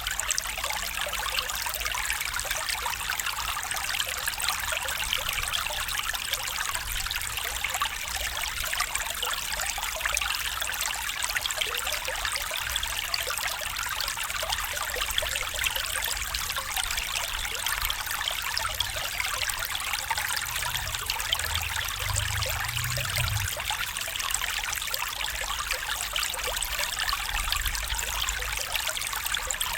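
A stream flowing and trickling steadily, a continuous even rush of water with a faint low rumble about twenty seconds in.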